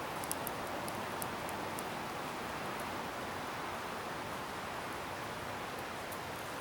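Wood bonfire burning with a steady hiss and sharp crackles and pops, most of them in the first two seconds.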